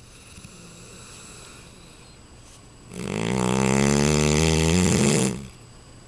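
A sleeping Neapolitan Mastiff snoring: a quiet breath, then about three seconds in one loud, drawn-out snore lasting about two and a half seconds, which stops abruptly.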